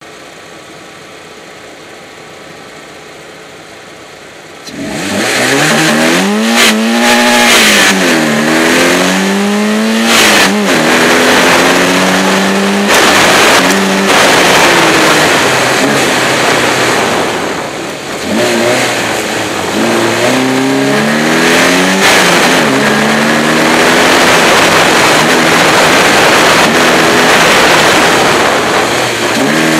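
BMW 318is four-cylinder engine running quietly for the first few seconds, then pulling away hard about five seconds in and revving up and down again and again through upshifts and lifts while driving a cone slalom.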